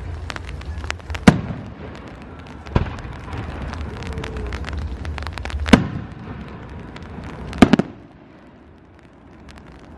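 Fireworks bursting overhead: four loud bangs spaced a couple of seconds apart, the last a quick double, with thin crackles between them.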